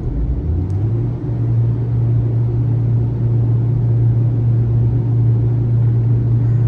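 Honda Civic Type R FL5's 2.0-litre turbocharged four-cylinder running on a chassis dyno. The revs climb about a second in, then hold steady under load, with the Mugen 5W30 oil in for an oil-pressure check.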